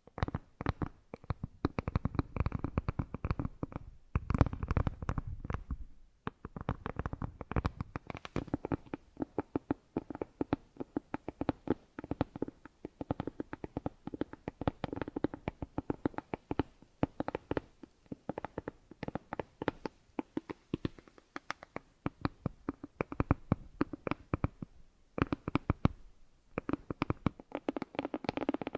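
Close-miked ASMR trigger sounds: a dense run of rapid crackling and tapping clicks that thins out briefly a few times.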